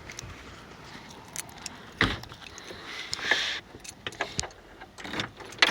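Clicks and rattles of car keys and a car door being handled, with a single thump about two seconds in.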